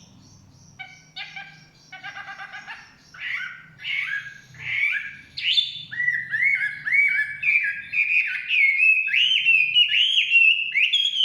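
Chinese hwamei singing: after a short pause, a harsh buzzy chatter, then loud slurred whistles repeated quickly in a running series that grows louder toward the end.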